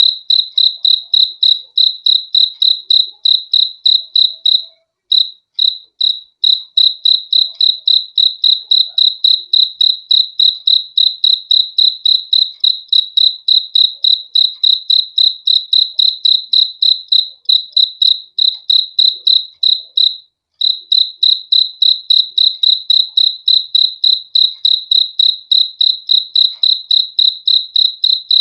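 Cricket chirping: a loud, steady train of short, high chirps at one pitch, several a second, pausing briefly twice.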